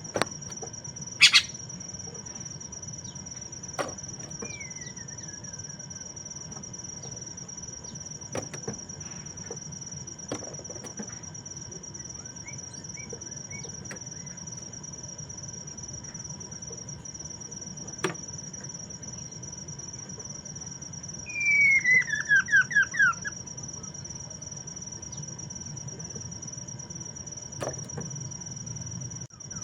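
Poksay mandarin call: a loud run of about seven quick notes, falling in pitch, about two-thirds of the way through. The bird is otherwise quiet apart from a faint whistle and a few chirps. A steady high insect trill runs underneath, broken by occasional sharp clicks.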